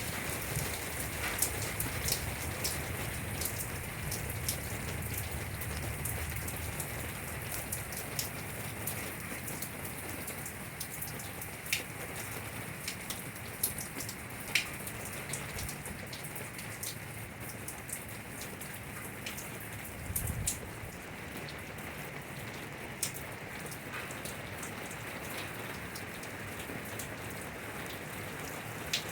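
Steady rain falling, with scattered louder drops ticking sharply against a surface. A brief low rumble swells about two-thirds of the way through.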